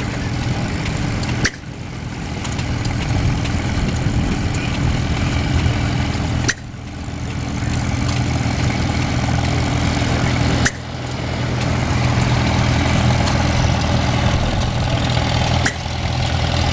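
Antique farm tractor engines running steadily at low speed. A sharp click comes four times, about every four to five seconds, and after each one the engine sound drops and then swells back up.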